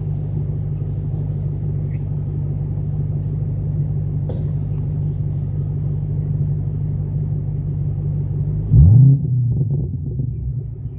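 2008 Ford Mustang GT's 4.6-litre V8 idling through a Magnaflow catted H-pipe and Pypes M80 mid-muffler catback exhaust. About nine seconds in, one quick rev: the pitch jumps up, the sound gets much louder for about half a second, then drops back to idle.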